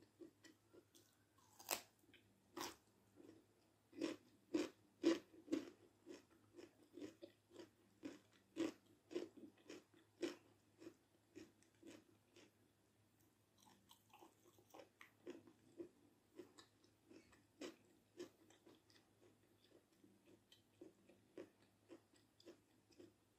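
Close-up chewing of a raw cucumber spear: a run of sharp crunches, strongest in the first ten seconds or so, then softer, smaller chewing sounds.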